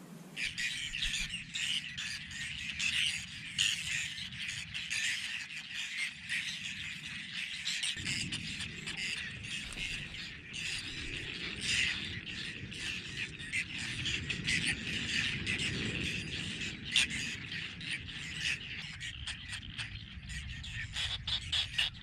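Wild birds calling: a dense stream of overlapping high chirps and squawks throughout. A low rumble joins about eight seconds in.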